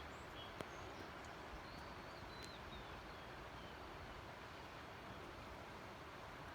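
Steady rushing outdoor background noise with a few short, high bird chirps in the first three seconds.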